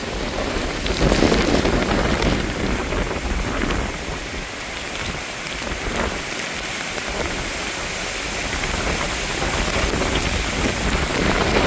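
Heavy rain pouring down in a severe thunderstorm, driven by strong wind. The rush swells about a second in and again near the end.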